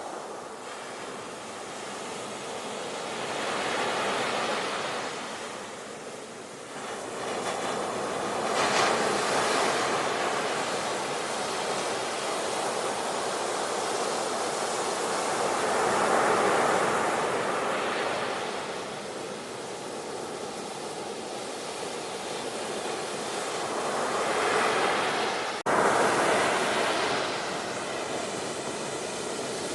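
Ocean waves breaking and washing in, the surf noise swelling and falling back every few seconds. Near the end it breaks off for an instant and comes back louder.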